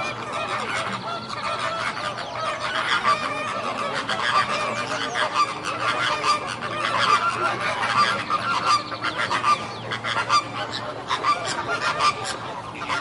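A flock of farm fowl calling over one another, a dense chorus of many short overlapping calls.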